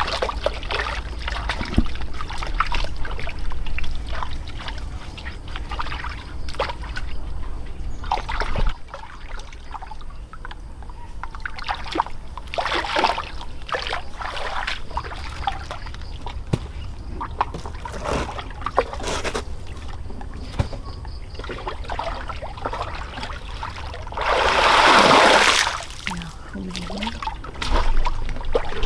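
Water sloshing and splashing in irregular strokes, with one louder rush of water lasting about a second and a half near the end.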